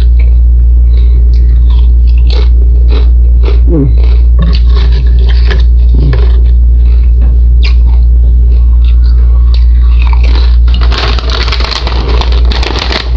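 Crisp chips being bitten and chewed close to the microphone, a series of short crunches, with a bag crinkling from a little past ten seconds in. A loud steady low hum runs underneath.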